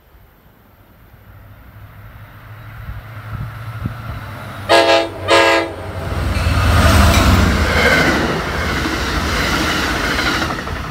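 Passenger train approaching and passing close by. Its horn sounds two short blasts about four and a half seconds in. Then comes a loud, steady noise of wheels on rail as the train goes by, falling off near the end.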